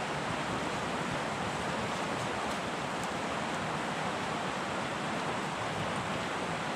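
Steady rushing of river water, an even noise that holds at one level without breaks.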